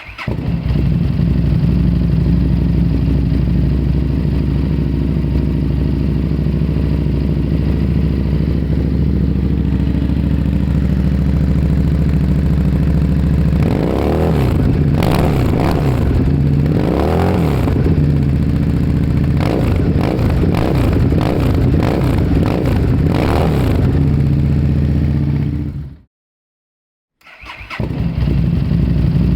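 Harley-Davidson Street Rod's 750 cc V-twin running through its exhaust, idling steadily, then revved in a series of throttle blips from about halfway that rise and fall before settling back to idle. Near the end the sound cuts out for about a second, then the idle resumes.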